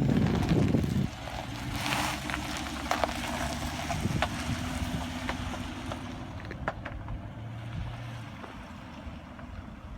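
A vehicle engine running, with rumble and wind on the microphone, loudest in the first second and then a steady low hum with a few small clicks.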